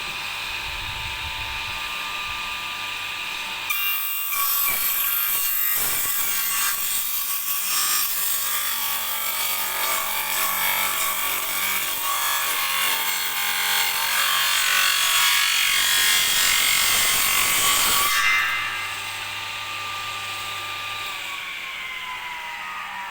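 Homemade table saw's electric wood-cutting motor spinning at speed with a steady whine, then cutting through a board for about fourteen seconds from about four seconds in. The cut ends, the blade runs free, and near the end the motor is switched off and winds down, its pitch falling.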